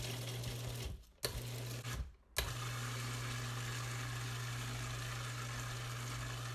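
Food processor motor blending a shrimp and cream cheese filling: two short pulses, then running steadily.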